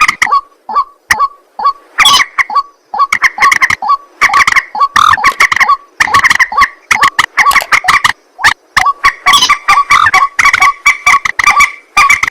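White-breasted waterhen (ruak-ruak) calls: a loud, fast run of repeated harsh notes, several a second, overlapping in a continuous chorus.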